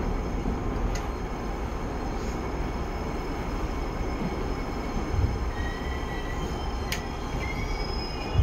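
Enshu Railway electric train heard from inside the passenger cabin as it pulls into the platform and slows: a steady low running rumble with a couple of sharp clicks. Thin high brake squeal sets in about two thirds of the way through as it comes to a stop.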